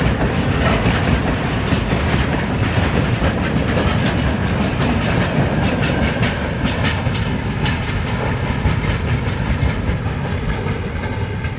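Loaded covered-hopper freight wagons rolling past, with steel wheels clattering over the rail joints in repeated clicks over a steady rumble. The guard's brake van passes last, and the sound eases slightly near the end as the train moves away.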